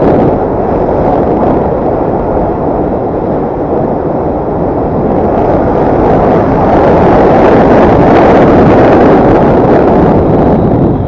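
Dirt bike engine running hard under load, a loud, distorted rush with wind buffeting the microphone; it swells louder about halfway through and drops off sharply at the end.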